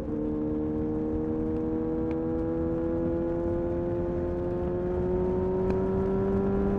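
Honda CBR-929RR Fireblade inline-four engine through an Erion full racing exhaust, pulling steadily. Its pitch jumps up at the start, then rises slowly and evenly as the revs build.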